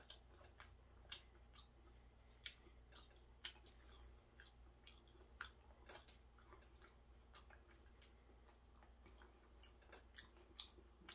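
Faint chewing of raw hairtail sashimi: irregular soft wet clicks and mouth smacks.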